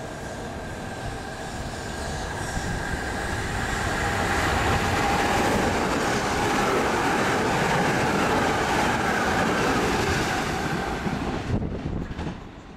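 Class 377 Electrostar electric multiple unit passing through at about 70–80 mph: a rush of wheels on rail and air that builds as it nears and holds loud while the carriages go by, with a steady high whine over it. The sound drops off sharply near the end.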